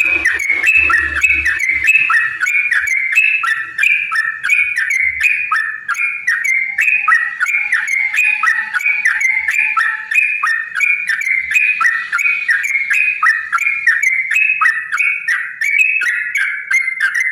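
Yellow-vented bulbul (trucukan) song: a long, unbroken run of quick, bubbly whistled notes repeating rapidly.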